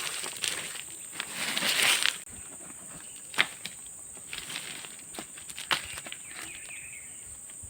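Tropical forest ambience: a steady high-pitched insect drone. Over it, rustling in the first two seconds cuts off abruptly, followed by a few sharp snaps or knocks.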